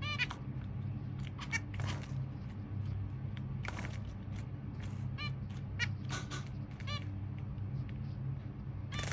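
Zebra finches calling: a scatter of short, nasal calls, several in quick runs, with a few brief splashy flutters in between.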